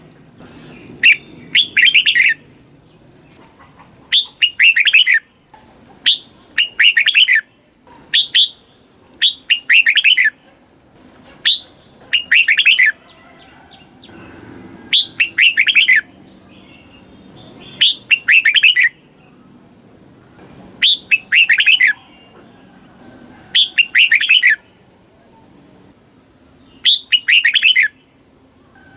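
Red-whiskered bulbul singing: short, loud, quick-noted song phrases repeated about every two seconds, with brief pauses between them.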